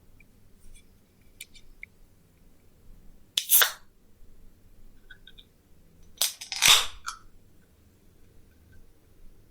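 Two loud crunches of teeth biting into crisp deep-fried food, one about three and a half seconds in and a longer one near seven seconds, with faint small clicks between.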